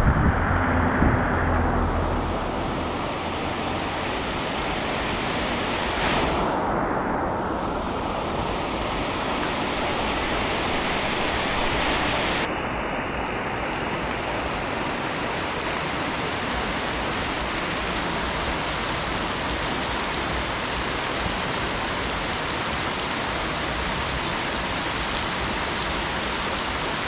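Heavy tropical rain pouring down and bouncing off hard surfaces, a steady hiss. A low rumble sits under it for the first couple of seconds.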